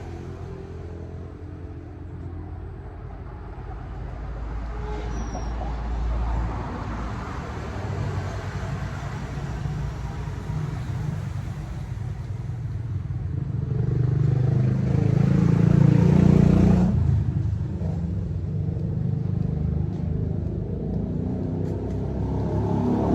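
Motorcycle engine running on the move, with a steady rush of road and wind noise. The engine note swells to its loudest about two-thirds of the way through, then drops off suddenly.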